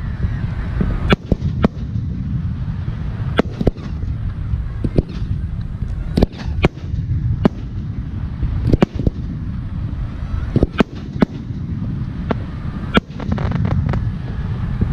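Aerial firework shells bursting: about fifteen sharp bangs at irregular intervals, some in quick pairs, over a steady low rumble.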